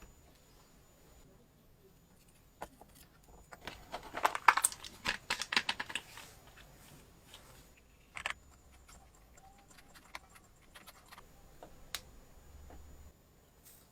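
Small metal parts clicking and rattling as they are handled, with a dense flurry of clicks about four to six seconds in and scattered single clicks after.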